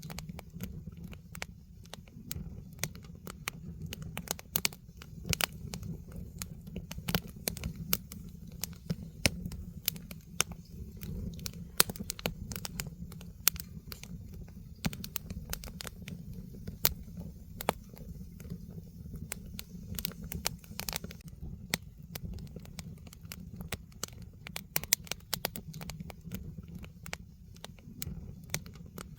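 Firewood burning in a fire pit, crackling with frequent irregular sharp pops and snaps over a low steady rumble of the flames.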